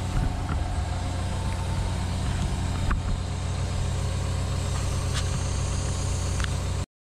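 Cat 314E excavator's diesel engine running steadily with a low hum, with a few faint clicks through it. The sound cuts off abruptly near the end.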